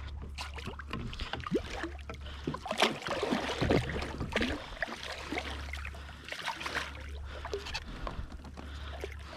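Water lapping and splashing around a kayak, with irregular small knocks and clicks over a steady low rumble.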